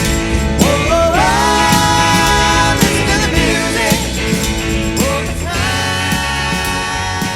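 A band playing a pop-rock song, with a singer holding long notes that each slide up into pitch, about a second in and again about five seconds in. The music begins to get quieter near the end.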